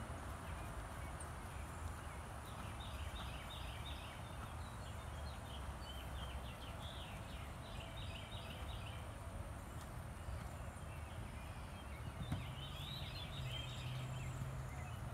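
Birds calling in three short bursts of quick chirps over a steady low outdoor rumble.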